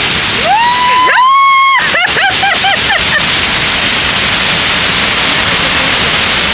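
A high-pitched voice calls out in a few drawn-out, gliding cries, then gives way about three seconds in to a steady, loud rushing hiss.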